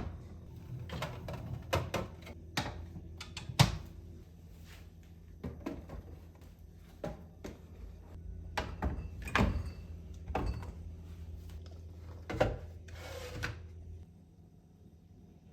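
Things being handled in a kitchen: a run of irregular knocks, taps and clatters, like containers being set down and drawers being pushed, with a brief rustle near the end. A steady low hum runs underneath and cuts off near the end.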